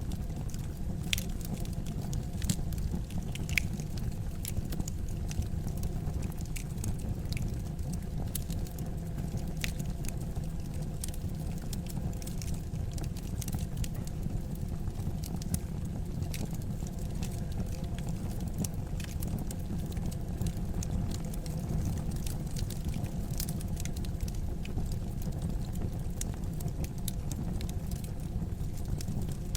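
Wood fire in a fireplace crackling, with scattered sharp pops and snaps over a steady low rumble of the flames.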